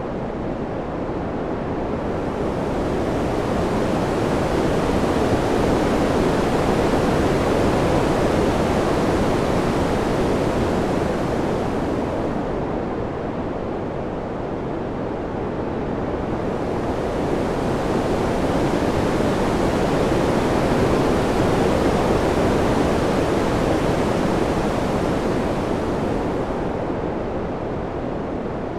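Steady rushing wind noise that slowly swells and fades twice, turning brighter and hissier as it swells.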